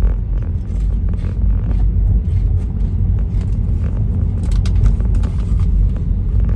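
Road noise of a moving car heard inside the cabin: a steady low rumble, with scattered faint clicks over it.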